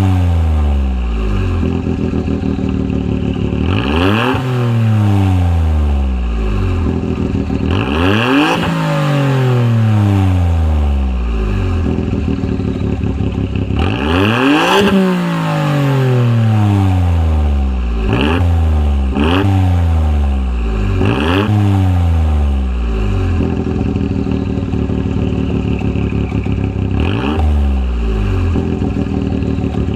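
Suzuki Alto Works RS-Z's small turbocharged three-cylinder engine through a Kakimoto GT-box 06&S aftermarket muffler, idling and blipped by the throttle about seven times. Each rev climbs quickly and falls back to idle over a couple of seconds, and three of them come in quick succession in the middle.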